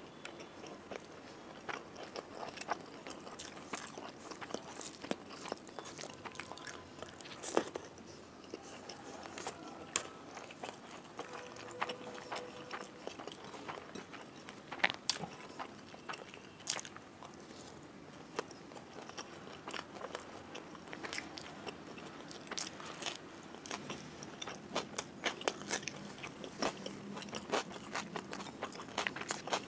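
Close-miked eating by hand: chewing and crunching of rice and fried seafood, with many irregular sharp mouth clicks and the rustle of fingers mixing rice on a plate.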